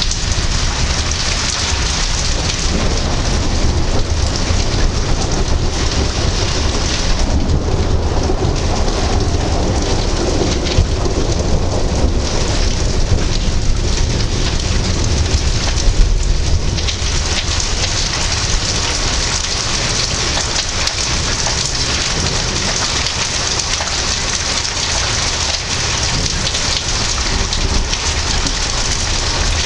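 Steady rain falling in a thunderstorm. A low rumble of thunder rolls through the middle for about ten seconds.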